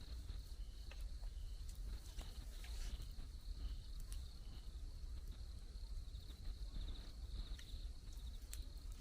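Insects trilling steadily in the jungle, with short repeated chirps in the first half and scattered sharp ticks.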